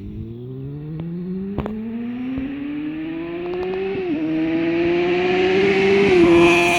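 Yamaha FZ6N inline-four with an Ixil aftermarket exhaust accelerating hard, its note climbing and dropping twice as it shifts up, about four seconds in and near the end, growing steadily louder.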